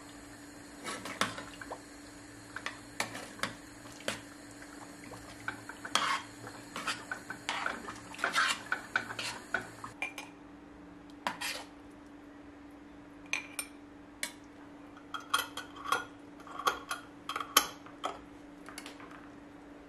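Dishes and cutlery clinking and knocking in irregular clusters of short clatters, over a steady low hum.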